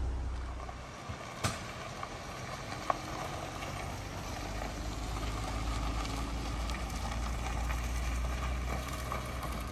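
A car engine idling with a low, steady rumble, and a few light clicks.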